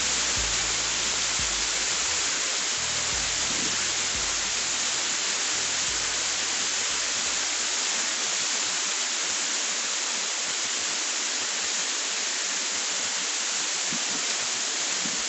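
Waterfall's water falling and rushing as a steady, loud hiss. Faint low background music fades out about halfway through.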